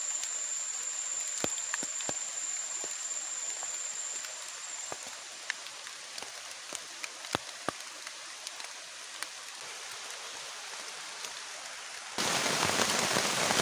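Steady rain with scattered sharp drips. A thin, steady high whine fades out about five seconds in, and the rain turns abruptly to a louder, denser rush near the end.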